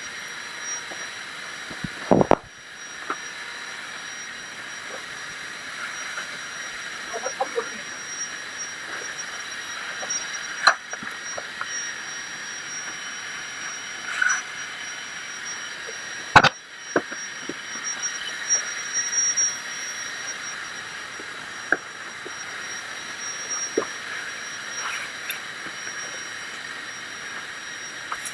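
A power tool's electric motor running steadily with a high whine and hiss, with three sharp knocks.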